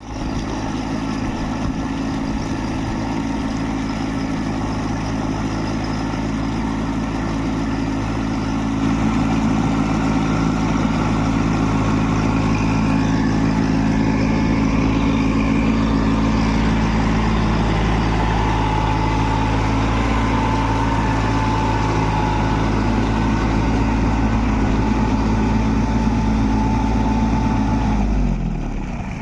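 Small Kubota tractor's diesel engine running steadily. It gets a little louder about nine seconds in, and its pitch drops near the end.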